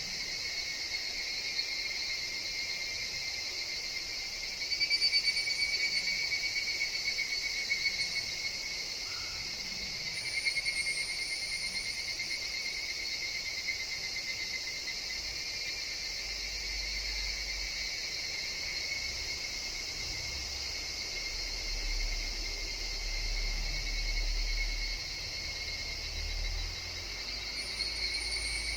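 A forest chorus of higurashi (evening cicadas) and other insects, calling steadily in two overlapping pitches. The chorus swells louder briefly about five and ten seconds in, and a few short higher-pitched trills break in over it. A low rumble runs under the second half.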